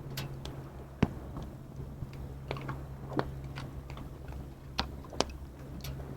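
Wood fire crackling with scattered sharp pops, the loudest about a second in and a few more near the end, over a steady low rumble.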